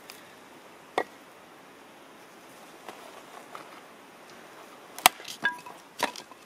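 Axe strikes splitting firewood: a single sharp chop about a second in, then three more in quick succession near the end, one of them with a short metallic ring.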